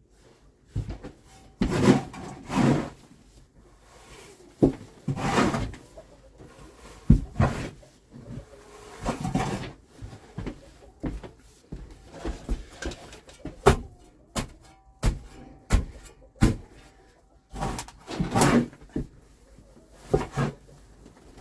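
Shovel scraping and scooping muddy bedding and manure off a wooden coop floor: irregular scrapes and knocks, one after another.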